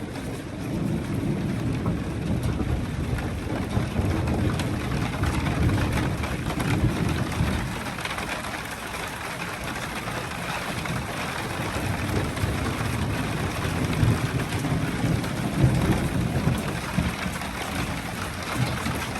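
Rain falling steadily during a thunderstorm, with low rumbling thunder that swells and fades, loudest in the first few seconds and again near the end.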